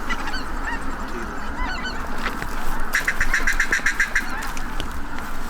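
A large flock of waterfowl calling all at once, many overlapping honks and calls blending into a constant din. About three seconds in, a quick run of about ten short, evenly spaced calls stands out for just over a second.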